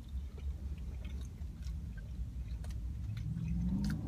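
People chewing mouthfuls of steakburger, with faint wet clicks over a low steady rumble. Near the end a low, steady hummed "mmm" begins.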